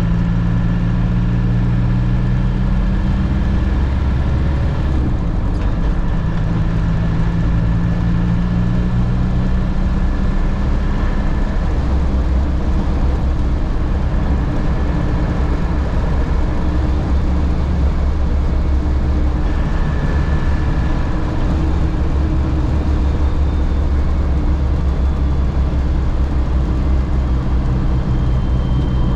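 Interior sound of a 1998 Land Rover Defender on the move: a steady low engine rumble mixed with road and drivetrain noise. The engine note shifts during the first ten seconds or so, then settles into a steady drone.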